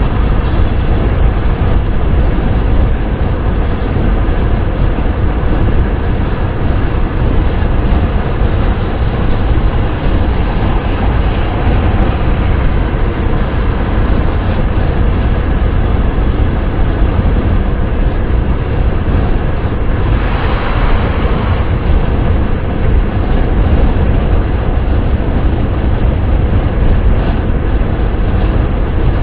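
Steady wind and road noise of a car driving: a dense low rumble under an even hiss, with a brief brighter rush about twenty seconds in.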